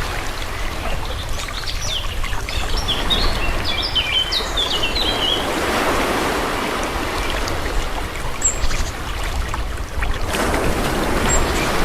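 Calm sea water washing in gently, with a swell about halfway through and another near the end. Small birds chirp in a quick run of high notes early on, then twice more singly.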